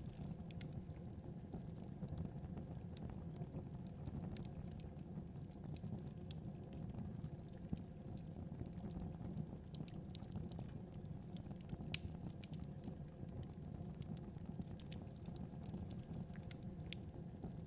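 Wood fire burning with a steady low rumble and scattered crackles and pops, two sharper pops a little before halfway and about two-thirds of the way through.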